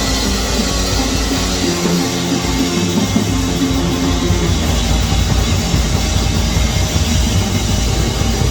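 Loud rock music with a drum kit and guitar, playing steadily throughout.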